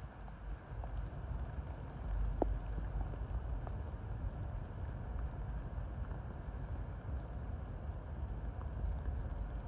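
Rain falling on a sycamore canopy, with scattered drops ticking and one sharper tick about two and a half seconds in, over a low steady rumble.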